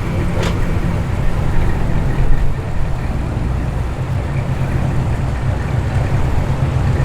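A car engine running with a steady low rumble as a car rolls in, with no clear revving.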